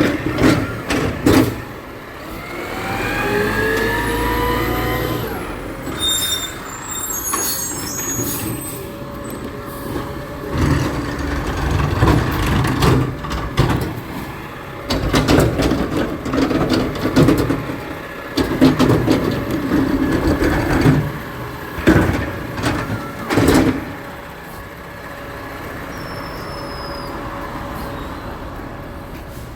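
Garbage truck working: its engine revs up with a rising pitch, then a long run of sharp metallic clanks and knocks, easing to a steadier running sound near the end.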